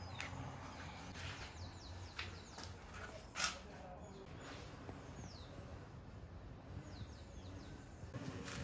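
Birds chirping faintly in short falling calls over a low steady hum, with one sharp knock about three and a half seconds in.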